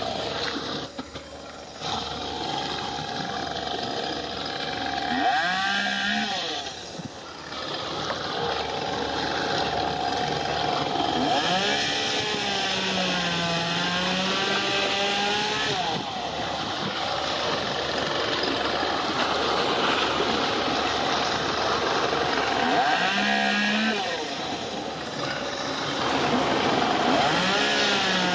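Small engines revving up and down in several passes over a steady rushing background noise.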